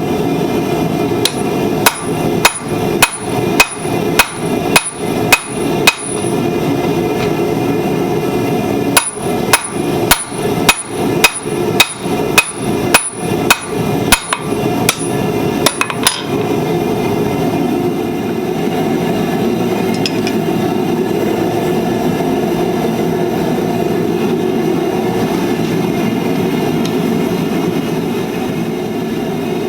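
Hand hammer striking hot steel on an anvil while forging tongs: two runs of quick blows, about two a second, each with a high ring, the first lasting about five seconds and the second about seven. A steady rushing noise runs underneath and goes on alone after the hammering stops.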